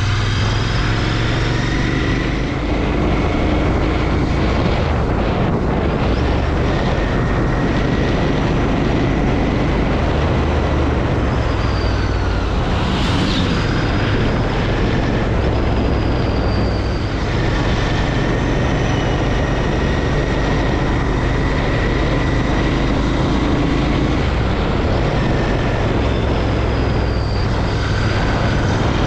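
Harley-Davidson motorcycle engine running under way, its engine note shifting up and down at several points as the bike is ridden.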